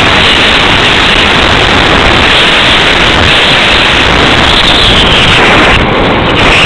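Loud, steady wind noise rushing over the microphone of a small camera riding on a slope-soaring model glider in flight, easing briefly near the end.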